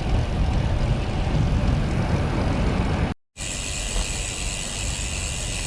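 Wind rushing over the microphone of a cyclist riding into a headwind, with road noise. The sound cuts out completely for a moment a little after three seconds in, then resumes as a steadier hiss with a high ringing edge.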